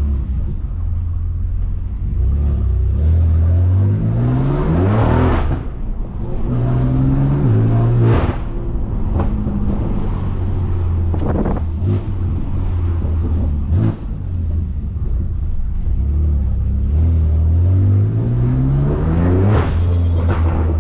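BMW S55 twin-turbo inline-six of an F80 M3 Competition with catless downpipes and an open valved axle-back exhaust, accelerating hard several times: the engine note rises with the revs, breaks off at each upshift and drops back. A few sharp cracks come in the middle.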